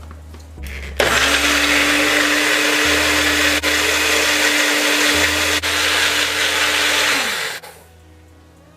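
Electric blender running for about six seconds, puréeing garlic, steamed peppers and cooking liquid into a pepper sauce. The motor spins up about a second in, holds a steady pitch, and winds down near the end.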